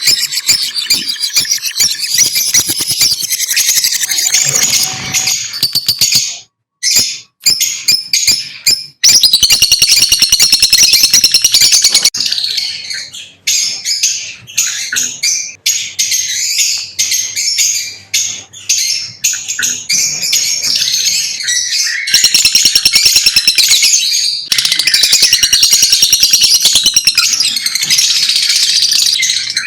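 Lovebirds chirping in a rapid, continuous high-pitched chatter, broken by a few short pauses about seven seconds in.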